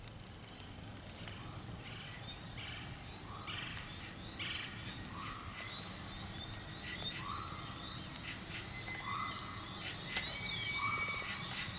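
Outdoor nature ambience: short, rising animal calls repeating about once a second over a steady high-pitched drone, with a few scattered clicks.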